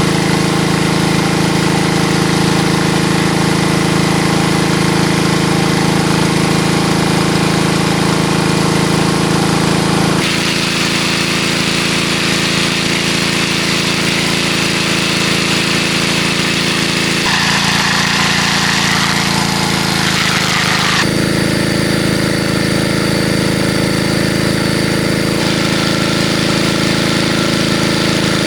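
A small engine running steadily at a constant speed, with abrupt shifts in its tone a few times, about 10, 17, 21 and 25 seconds in.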